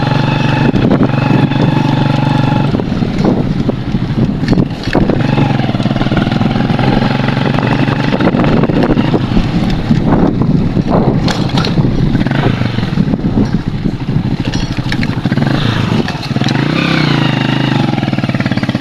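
Motorcycle engine running as it is ridden along a bumpy, potholed dirt road. The note holds steady at first, then shifts up and down with the throttle, with scattered knocks from the rough road. It rises and falls again near the end.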